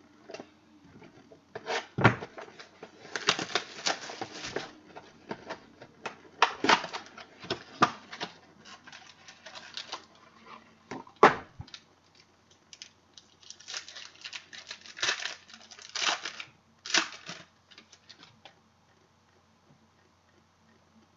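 Trading cards and card packs being handled on a table: irregular bursts of crinkling, tearing and sharp clicks, tailing off near the end.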